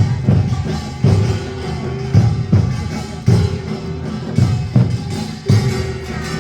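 Korean traditional folk music: drums and other percussion beating a rhythm under held melodic tones.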